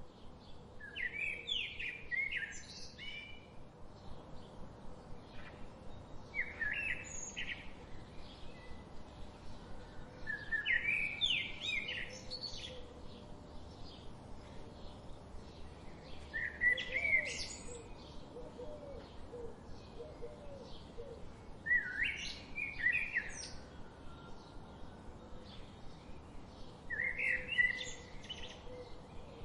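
Wild songbird singing a short, complex song phrase of quick rising and falling notes about every five seconds, six times. Under it runs a steady stream of rapid faint chirps.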